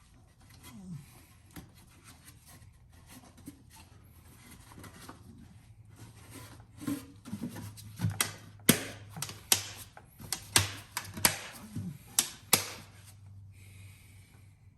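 Sharp clicks and taps of hard plastic engine-bay parts being handled and fitted, scattered at first, then a quick run of about a dozen louder clicks in the second half.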